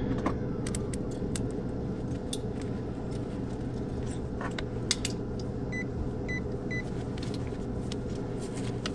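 Small clicks of a multimeter and test leads being handled on a heat pump's run capacitor to measure its capacitance, with three short high beeps from the meter about six seconds in. A steady low hum runs underneath.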